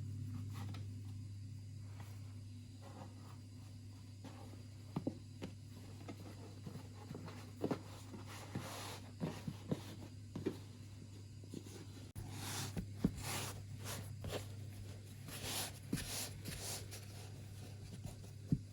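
Scattered small knocks and clicks with bursts of rustling, the sounds of hands handling things, over a steady low hum.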